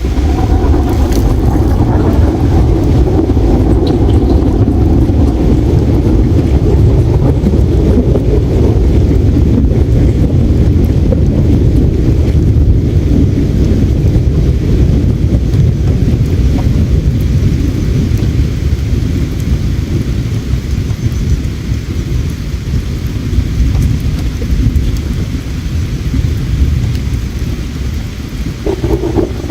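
River water flowing: a loud, steady low rumble of rushing water.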